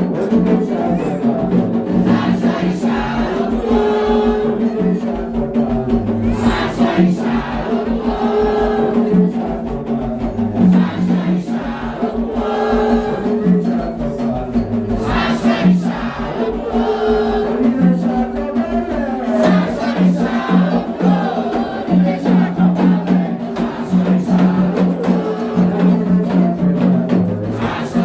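A group of voices chanting and singing together over music with a dense, steady rhythmic pulse, in the manner of an Afro-Brazilian ritual song for Xangô.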